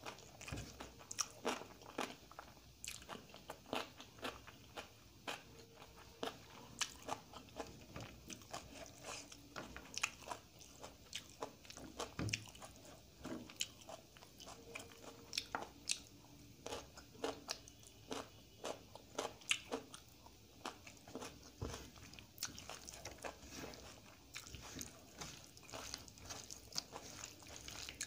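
Close-miked eating sounds: chewing and crunching of dal, rice and egg fry eaten by hand, as many sharp, irregular wet clicks and smacks, mixed with fingers squishing and mixing the food on the plate.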